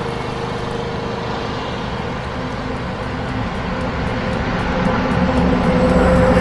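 Truck engine running with a steady drone that gradually gets louder.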